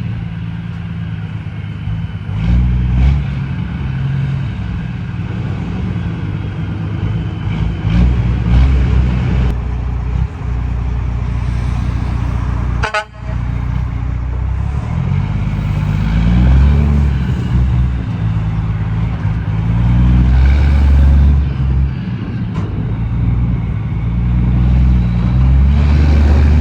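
Straight-piped Detroit Series 60 diesel of a Peterbilt 389 glider pulling a loaded trailer. Its pitch climbs and falls several times as it works through the gears, with a brief break about halfway through.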